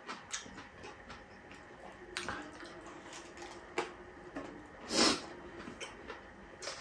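Close-up wet chewing and lip-smacking of a person eating, with scattered small clicks and one louder, short wet sound about five seconds in.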